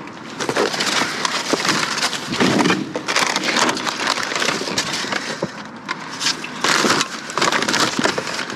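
Rummaging through discarded packaged food and trash in a dumpster: continuous crinkling and rustling of packaging, with many scattered clicks and knocks.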